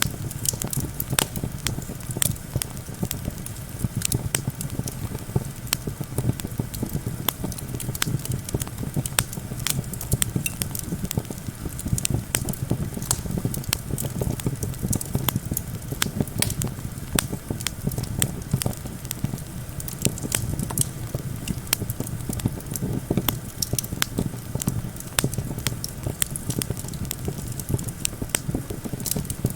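Campfire crackling, with frequent sharp pops and snaps from the burning wood, over a steady low rumble of wind.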